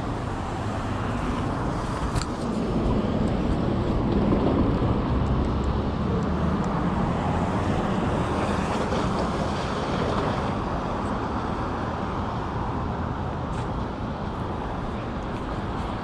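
City street traffic: a vehicle passes, its engine and tyre noise swelling a few seconds in and fading by about ten seconds, over a steady urban background.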